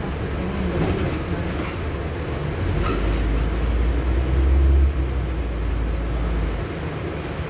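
Interior of a LiAZ-6213.65 articulated diesel bus on the move: engine and road noise, with a deep low rumble that builds about three seconds in and drops away shortly before the end.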